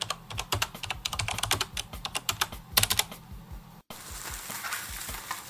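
Typing on a computer keyboard: a quick, irregular run of key clicks that cuts off abruptly a little under four seconds in. A soft, steady noise follows.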